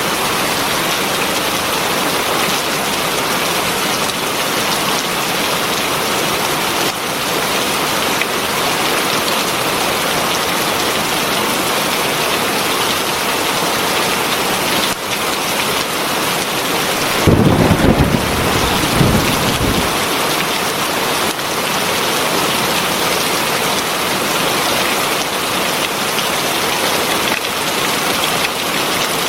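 Heavy rain falling steadily, with a short low rumble of thunder about two-thirds of the way through.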